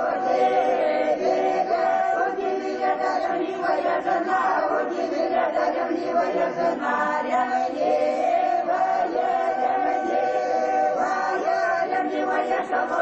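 A choir singing, several voices holding long pitched notes together.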